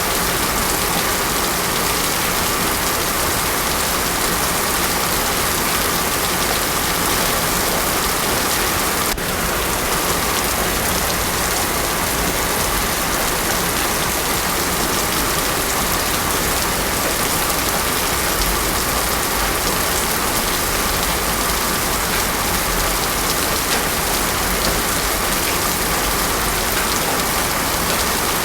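Heavy rain falling steadily, a dense even hiss with no thunder. There is a brief click about nine seconds in.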